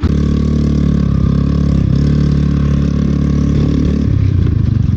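A vehicle engine running steadily and loud, its note turning pulsing in the last second.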